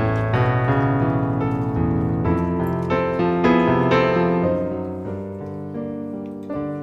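Background piano music, a slow melody of struck notes that ring and fade.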